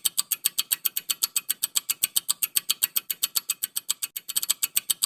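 Rapid, even ticking of a countdown-timer sound effect, about eight sharp ticks a second, with a brief run of quicker ticks about four seconds in.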